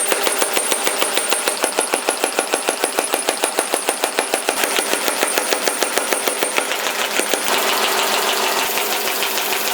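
Mechanical power hammer pounding hot spring steel in fast, even strokes, about five or six a second; the beat becomes denser and less distinct near the end.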